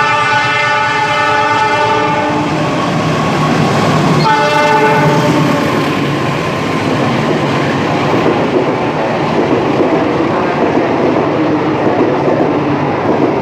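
A train horn sounds a long blast, then a second shorter blast about four seconds in, followed by the steady rumble and clatter of the train running on the rails.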